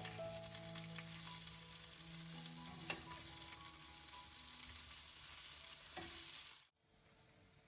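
Sliced potatoes and onion sizzling as they fry in olive oil in a cast iron pan, with a sharp click about three seconds in. The sizzle cuts off suddenly near the end.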